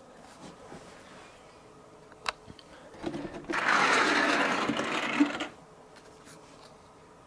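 A sharp click about two seconds in, then a small motor whirring loudly for about two and a half seconds before it stops abruptly.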